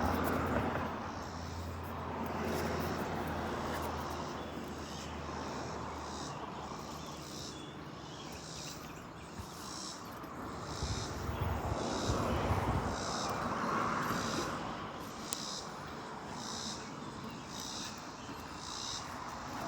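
Outdoor ambience: a high-pitched insect call pulsing about once a second, over a broad rushing noise that swells and fades around the middle.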